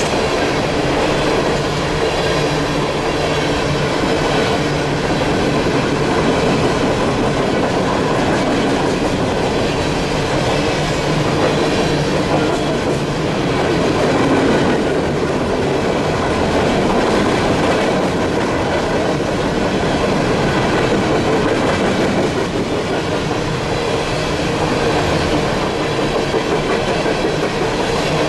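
Empty coal cars of a CSX unit coal train rolling past, their steel wheels running steadily along the rails.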